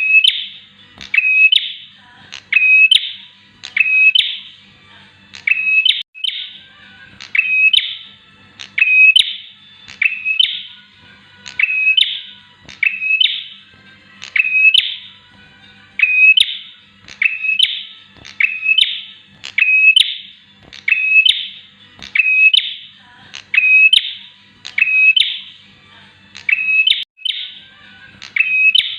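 Bar-winged prinia (prenjak) calling: one short, sharp chirp repeated evenly about once a second.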